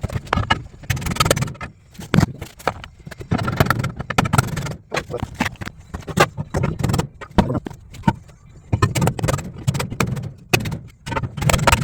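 Hammer repeatedly striking a steel differential cover, an irregular series of many sharp metal blows, flattening out the damage where a loose bolt came through before it is welded.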